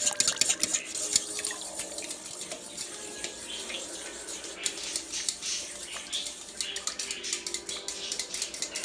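A metal fork whisking cream of chicken soup and warm broth in a bowl: rapid, continuous clinking and scraping of the fork against the bowl.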